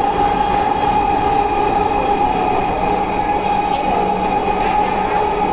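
Metro train running at a steady speed: an even rumble and hiss with a steady whine over it.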